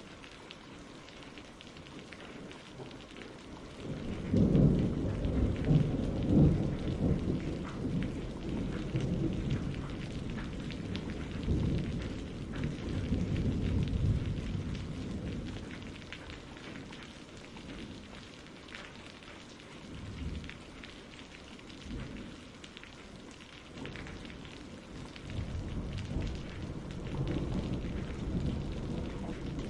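Steady rain with rolling thunder: a long low rumble swells about four seconds in and dies away over the next ten seconds, and another rumble builds near the end.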